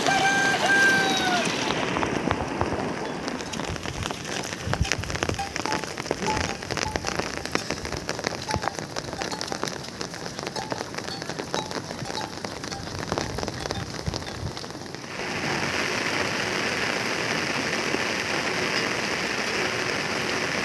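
Rain falling, with many separate drops ticking sharply on a surface, then changing suddenly about fifteen seconds in to a steadier, brighter hiss of rain. A short pitched call sounds once at the very start.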